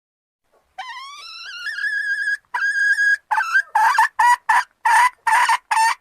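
Junglefowl hen calling to the male: a long rising note, then a shorter held note, then a quick run of short harsh notes.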